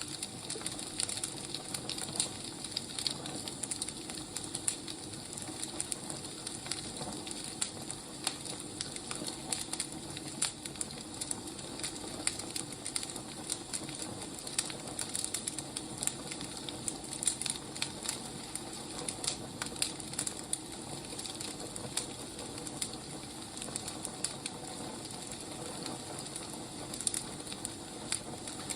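Firewood burning: a steady hiss with irregular sharp crackles and pops from the burning logs.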